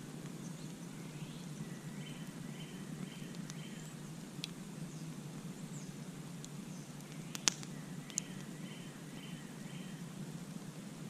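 Campfire burning with a steady low rustle and a few sharp crackling pops, the loudest about seven and a half seconds in. A bird sings a short phrase of four or five quick repeated notes, twice.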